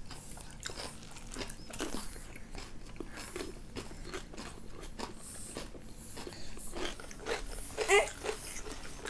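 Close-up eating sounds: biting and chewing, with many small wet mouth clicks and crunches, of sweet potato with kimchi. A short voiced sound is heard about eight seconds in.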